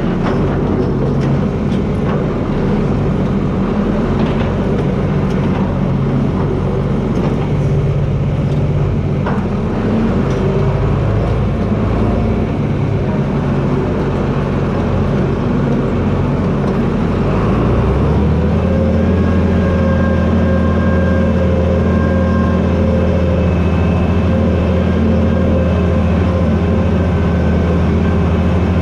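John Deere 4320 tractor's six-cylinder diesel engine running, with scattered knocks and cracks in the first half. About 18 seconds in, the engine settles into a steadier, higher-pitched, slightly louder run.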